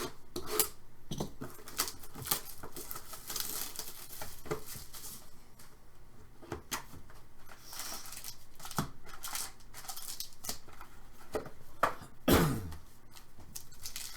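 Trading card box and packs being torn open by hand, wrappers rustling and crinkling and cards handled, in a string of irregular rips and clicks; the loudest rip is about twelve seconds in.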